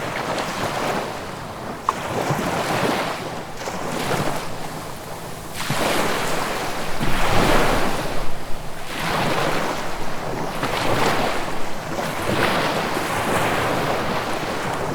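Ocean waves breaking and washing on the shore, the surf rising and falling in repeated surges, the loudest about halfway through.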